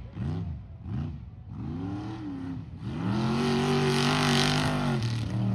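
Mega truck's big engine revving in a quick series of short blips, each rising and falling, then held hard at high revs for about two seconds before dropping off near the end.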